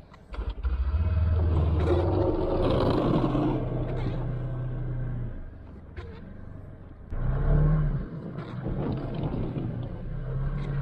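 Side-by-side UTV engine revving up about a second in and holding, easing off around the middle, then revving again and settling.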